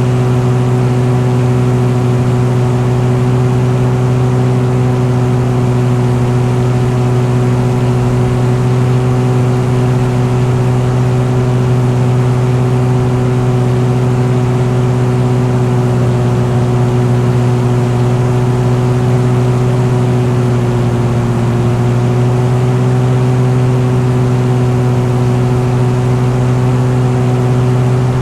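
An engine running at a steady, constant speed: a loud, even drone whose pitch sags slightly about three-quarters of the way through.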